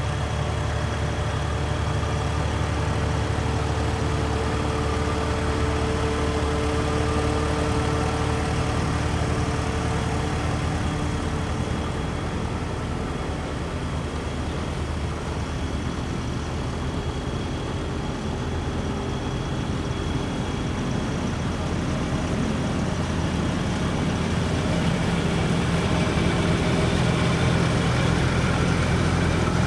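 Antique farm tractor engines running steadily at low speed. Around 24 seconds in, a different engine note grows slightly louder.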